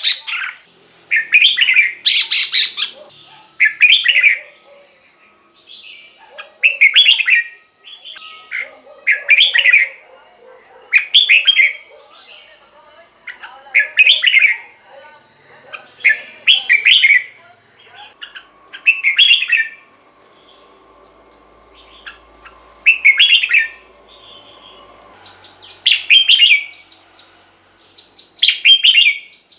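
Red-whiskered bulbul singing: short, loud song phrases repeated every couple of seconds, with a gap of a few seconds past the middle.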